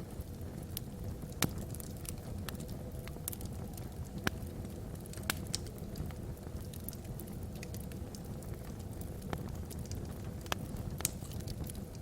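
Wood fire burning in a fireplace: logs crackle with irregular sharp pops over a steady low rumble of the flames.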